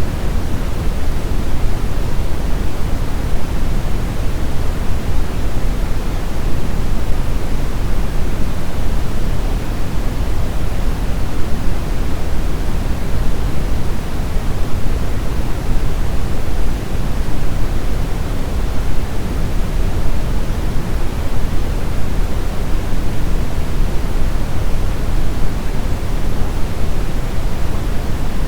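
Steady brown noise: an even, unchanging hiss with most of its weight in the deep end, falling away towards the highs.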